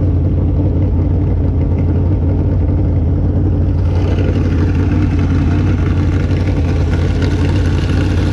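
Engine running steadily at an even speed, a constant low drone, with more hiss added from about four seconds in.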